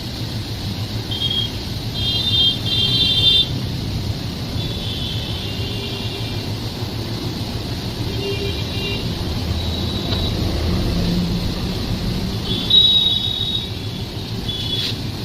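Steady rumble of a moving train, with several short high-pitched tones at intervals.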